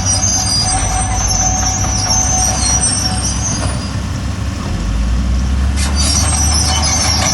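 Bulldozer's diesel engine running under load, with high metallic squealing from its steel crawler tracks. The engine grows louder about two-thirds of the way in.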